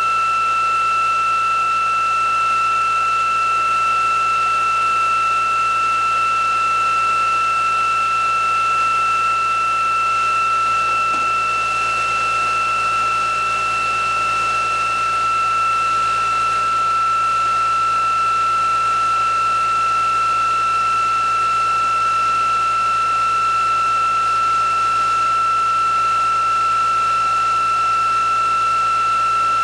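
Electric motor test rig running at a steady speed: a constant high-pitched whine over a steady hiss.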